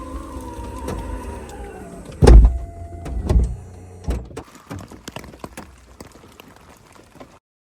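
Electric motor in a Subaru Outback, such as a power-window motor, whining as it runs, its pitch sagging as it stops. Then two heavy thumps about a second apart and a few light knocks.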